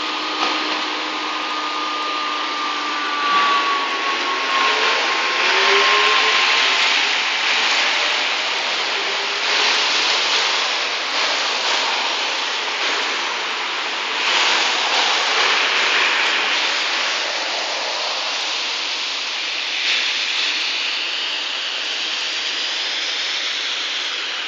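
Street traffic on a wet road: a steady hiss of tyres, swelling as vehicles pass several times. In the first few seconds a passing vehicle's whine slides down in pitch, then other whines slide up.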